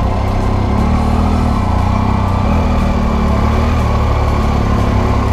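Triumph Tiger 800 XRt motorcycle's three-cylinder engine running steadily.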